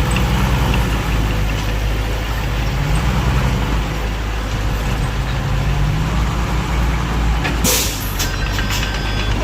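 Heavy diesel engines of a bulldozer and dump truck running, the engine pitch rising and falling twice as it is revved. A short burst of air hiss comes about eight seconds in.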